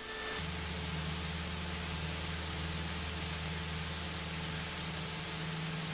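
Cessna 172 cabin noise with the engine idling: a steady low hum through the headset intercom, with a faint steady high-pitched electrical whine over a light hiss.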